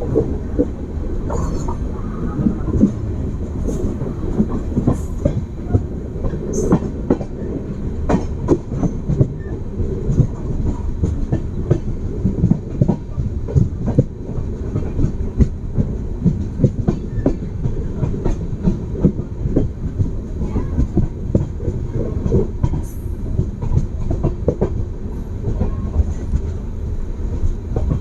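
Passenger train running at speed, its coach wheels clattering over rail joints: a steady low rumble with many sharp knocks in quick, irregular succession.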